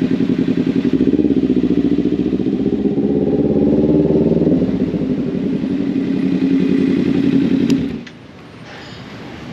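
Motorcycle engine running with a rapid, even exhaust pulse. About a second in it rises in pitch as it pulls away, eases back after about four and a half seconds, and cuts out abruptly near the end.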